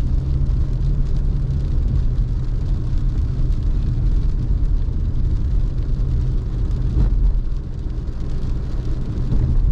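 Steady road and engine noise heard inside a moving car's cabin: a continuous low rumble from tyres and engine.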